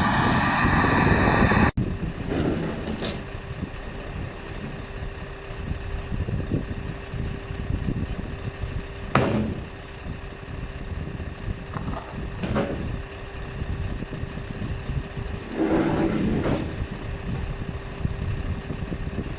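Vehicle engine idling with a steady low hum, with a few short knocks and clunks over it, the loudest about nine seconds in.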